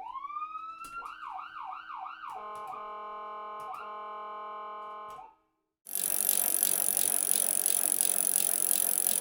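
Ambulance siren winding up and wailing up and down three quick times, then holding a steady tone before cutting off about five seconds in. After a short break, a loud, steady hissing noise runs on.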